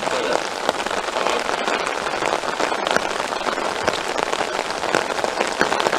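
Heavy rain falling hard, with dense pattering of many individual drops striking an umbrella held right over the microphone.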